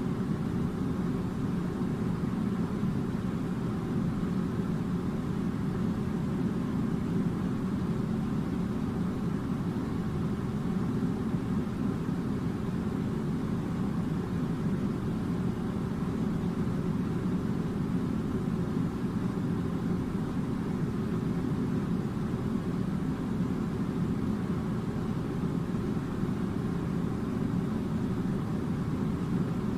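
Air conditioner running: a steady low hum and rush of air that does not change.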